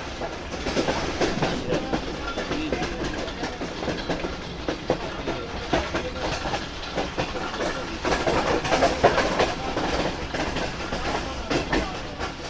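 Passenger train running along the track: a steady rumble of the wheels with repeated irregular clicks and rattles.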